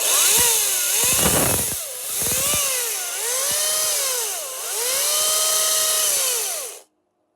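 Makita XCU06 18V cordless top-handle chainsaw running free with no cut, its motor and chain whine speeding up and slowing down several times under the trigger, then stopping suddenly near the end.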